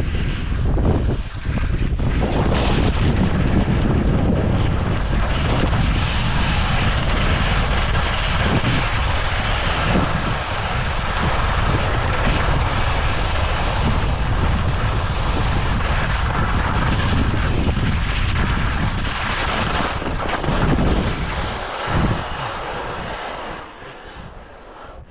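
Strong wind buffeting the microphone: a steady, loud rumble with a hiss over it, easing off near the end.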